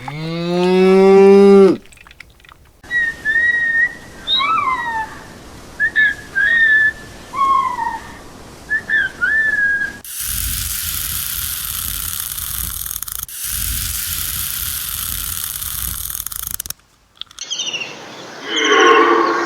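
A cow moos once at the start. Then come a few seconds of short whistled chirps and pitch glides, and a steady rushing noise with a low rumble lasting about seven seconds. Near the end another animal begins a pulsing, repeated call.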